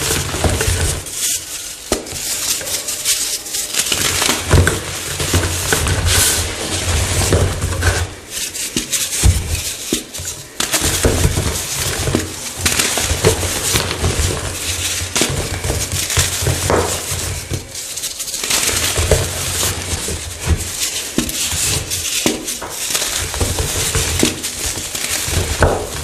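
Coloured chalk blocks being crushed, a dense run of crunching and crackling with many sharp snaps.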